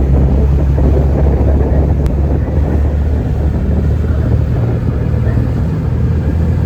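Harbour cruise boat's engine running with a steady low drone, under a continuous rush of wind and water noise.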